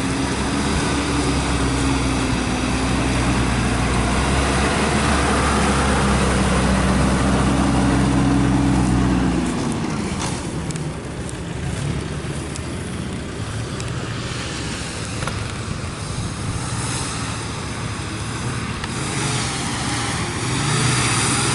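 A motor vehicle engine runs steadily, then its note falls in pitch and drops away about nine to ten seconds in, leaving quieter vehicle and road background.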